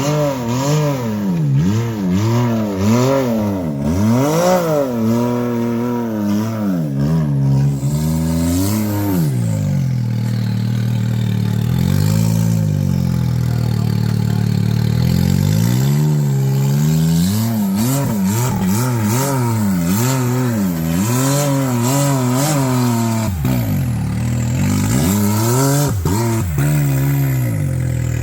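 Side-by-side UTV engine revving up and falling back over and over under load as it crawls a steep rock climb, holding a steadier pitch for a few seconds near the middle.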